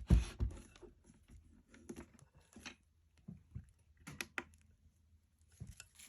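Handling noise from a portable power station and a USB charging cable being set up: a couple of soft thumps at the start, then scattered small clicks and taps.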